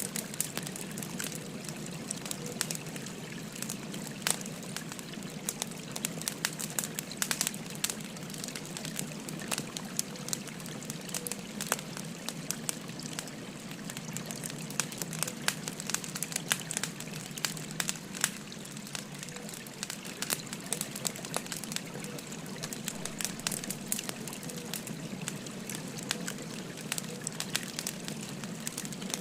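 Wood fire crackling with frequent irregular snaps and pops, over the steady babble of a flowing river.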